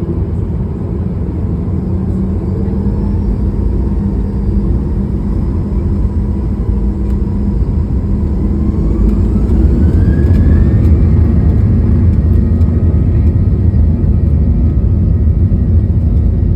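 Boeing 737-800's CFM56-7B turbofan engines spooling up to takeoff thrust: a whine rises in pitch about nine seconds in as the deep engine noise grows louder, then holds steady at high power.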